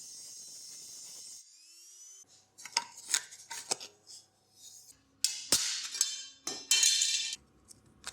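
Hand tools and small metal parts clinking and knocking, with a steady hiss for the first second and a half and two short, louder hissing bursts in the second half.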